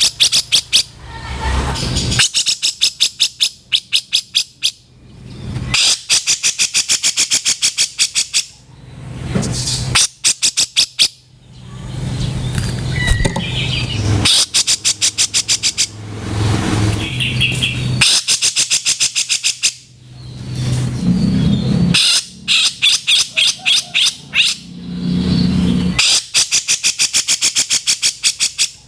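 Grey-cheeked bulbul (cucak jenggot) giving its harsh, rattling calls: fast runs of sharp notes in repeated bursts every couple of seconds, over a faint low hum.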